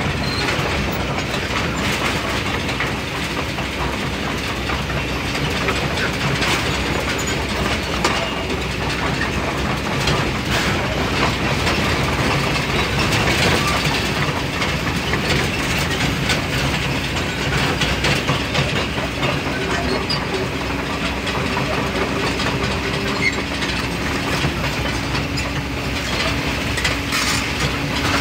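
Excavator at work in a sand mine: its diesel engine runs steadily under load, with scattered metallic clanks and clatter.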